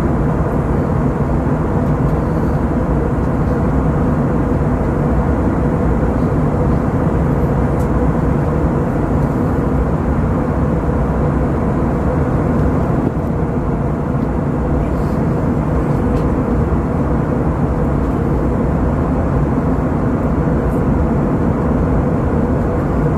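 Airbus A321-200's engines and the rush of air, heard as a steady, loud cabin noise during the climb after takeoff.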